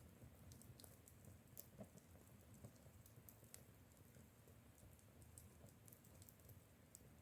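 Near silence, with faint, irregular small clicks and patter scattered through it.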